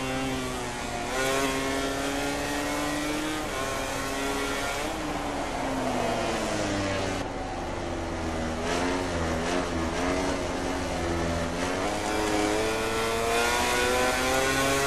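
MotoGP racing motorcycle engines at race speed. The pitch drops and climbs again several times as the bikes brake and accelerate through corners.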